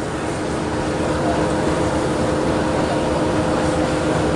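Engine of a river passenger launch running steadily under way, a constant droning hum over an even rushing noise.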